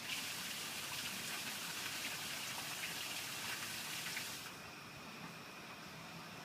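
Rain falling hard, a dense hiss with fine pattering that starts suddenly and cuts off about four and a half seconds in.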